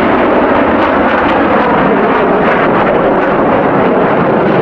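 Loud, steady jet noise from F/A-18 Hornets flying past, falling slightly in pitch up to about a second in.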